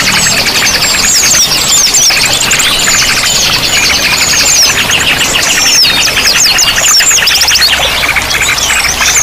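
A dense chorus of many small songbirds, calling over one another with rapid trills, chirps and quick up-and-down whistles.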